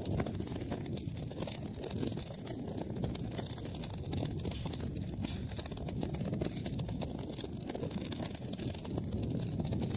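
Wood fire burning in a fireplace: a steady low rumble of flames with many small, quick crackles from the burning wood.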